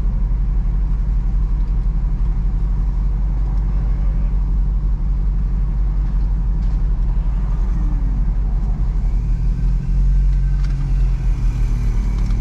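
Low, steady engine rumble of an idling SRT SUV, heard from inside the cabin, with a second low hum joining about nine seconds in.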